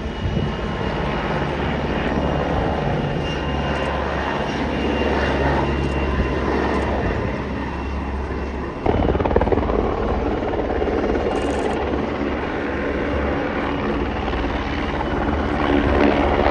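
Helicopter's rotor and engines running steadily, with the sound jumping suddenly louder about nine seconds in.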